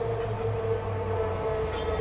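CrossCountry Voyager diesel multiple unit approaching: a steady hum from the train with a clear, steady note over it.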